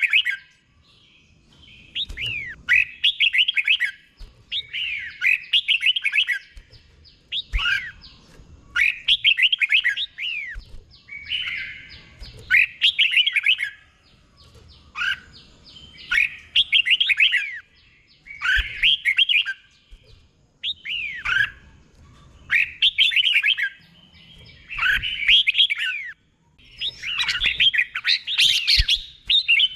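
Red-whiskered bulbul singing in the doubled-phrase 'beun' style: short, bright, swooping warbled phrases repeated one after another, about one every two seconds with brief pauses between.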